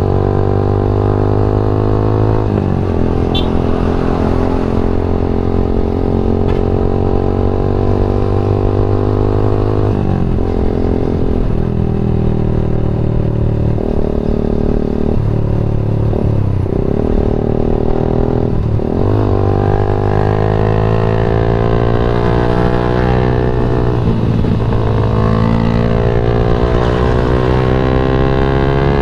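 Yamaha MX King 150's single-cylinder four-stroke engine running while riding. The engine note sinks slowly at first, dips sharply several times about halfway through, then climbs steadily as the bike accelerates.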